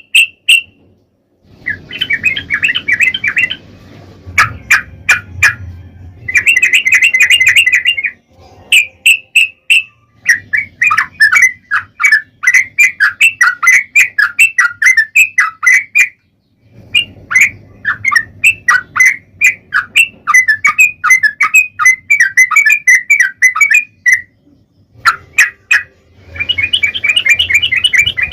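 Yellow-vented bulbul (trucukan) singing long rolling phrases of rapid, bubbling notes, repeated with brief pauses between them. The recording is loud, with crackling clicks through the song.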